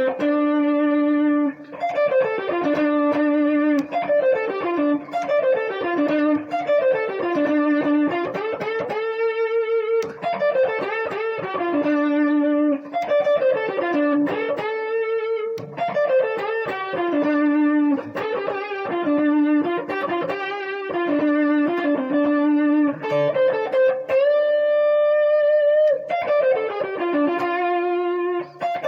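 Electric guitar playing a blues solo as single notes: fast picked runs that sweep down and back up again and again, with bent and held notes in between.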